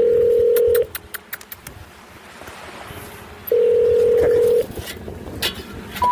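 Telephone ringback tone: a steady low tone that stops about a second in and sounds again for about a second a few seconds later. Near the end come three short beeps, each higher than the last: a special information tone, the signal that a call cannot be completed.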